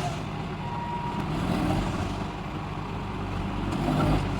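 Heavy diesel engine running steadily with a low rumble, swelling slightly near the end.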